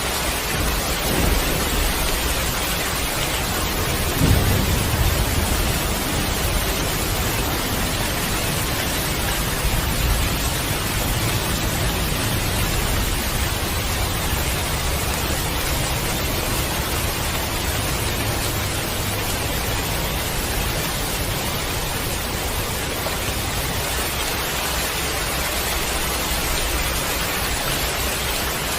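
Heavy rain falling steadily, with a low roll of thunder about four seconds in that dies away over a few seconds.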